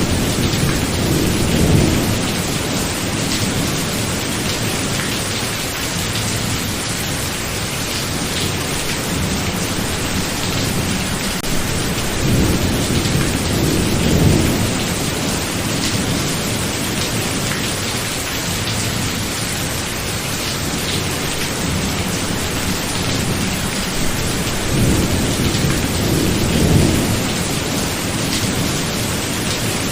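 Steady heavy rain with rolling thunder, the low rumble swelling three times: about a second in, around the middle, and near the end.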